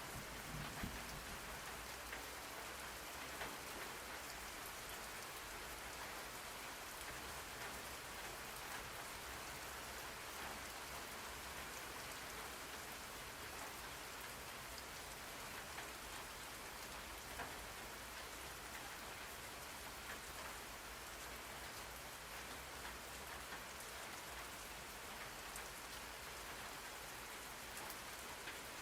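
Steady rain falling on a surface: an even hiss with scattered faint drop taps.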